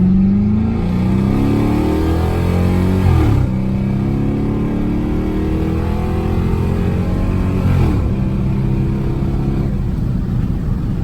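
2006 Dodge Magnum's 5.7 HEMI V8 accelerating through an open exhaust, with mufflers and resonators deleted and only the catalytic converters and an X-pipe left. Its note climbs steadily, drops suddenly about three seconds in, climbs again, drops again near eight seconds in, then holds steady.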